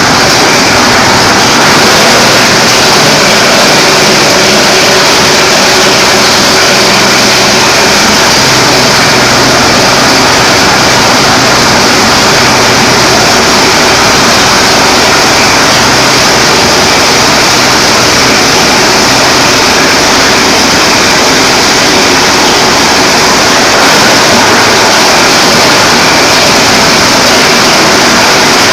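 Plastic cutter grinder machine running, a loud steady mechanical noise with no breaks.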